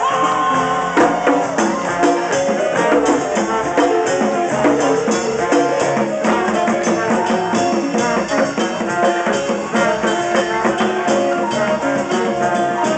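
Live band playing Haitian music, an instrumental stretch with drums and rattling hand percussion keeping a busy beat under several pitched instruments.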